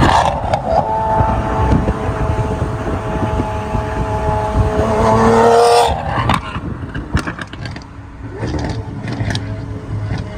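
Car engines running on a busy street, with a steady high tone over them that stops suddenly about six seconds in. The rest is quieter street noise with scattered clicks.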